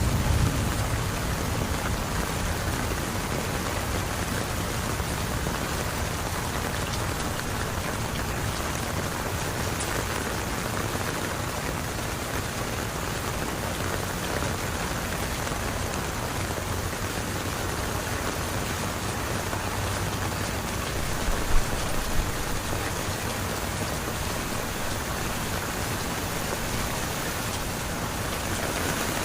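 Steady heavy rain falling and splashing on surfaces, an even hiss. Two brief sharper knocks come about two-thirds of the way through.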